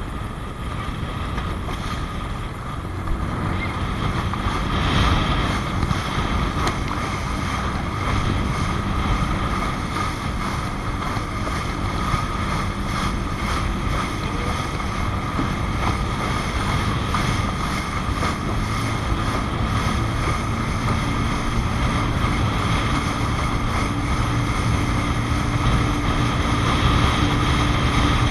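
Traxxas Spartan RC speedboat's electric motor running on the water as a steady whine, under wind rumble on the microphone.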